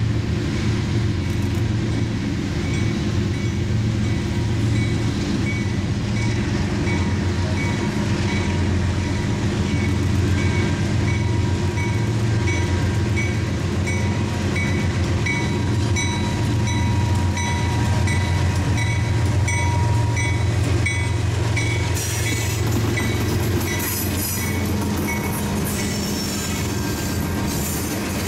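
CSX diesel freight locomotives approach and pass with a steady low engine drone, while a bell rings in a quick, even rhythm. From about three-quarters of the way in, the engines are close and wheel and rail noise from the passing cars joins in.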